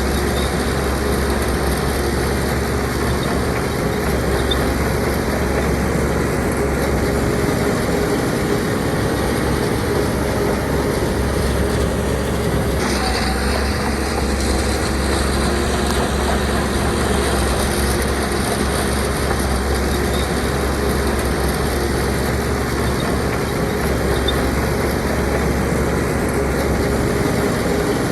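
Heavy diesel earthmoving machinery running steadily. The sound changes character about halfway through.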